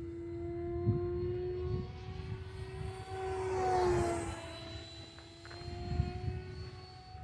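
E-flite Viper 70 mm electric ducted-fan jet whining in flight, swelling to a loud rushing pass about four seconds in as its pitch drops slightly, then fading back.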